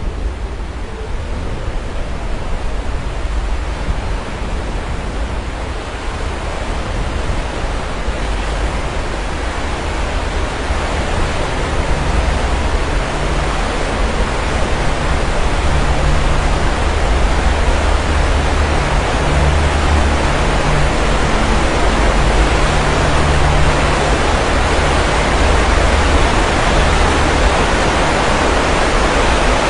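Sea waves washing onto the shore: a steady rush of surf that swells gradually over the first half, with a low rumble underneath.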